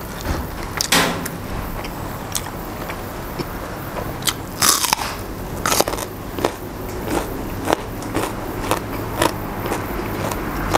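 A person chewing and crunching fresh raw vegetables close to a clip-on microphone. Crisp crackles come about twice a second, with one louder crunch a little before the middle.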